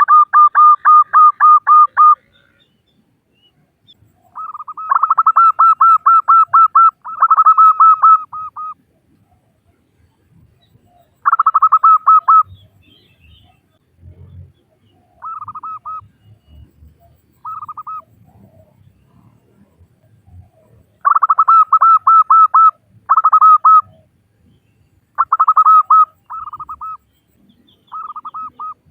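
Female zebra dove (perkutut) calling: loud, fast runs of short, evenly repeated coos on one pitch, about nine notes a second. The bouts last from half a second to two seconds, with pauses between them. It is a lure call for drawing in male zebra doves.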